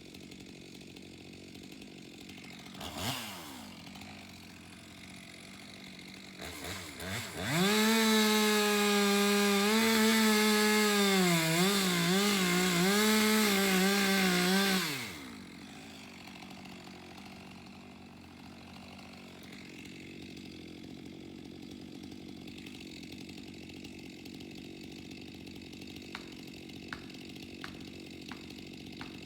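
Stihl two-stroke chainsaw idling. It gives a quick blip of throttle about three seconds in, then is held at full throttle for about seven seconds, its pitch dipping and wavering as it cuts into wood, before dropping back to idle.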